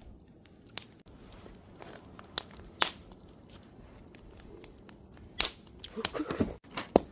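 Campfire crackling: a low hiss with scattered sharp pops of burning wood, turning into a quick run of louder snaps in the last couple of seconds.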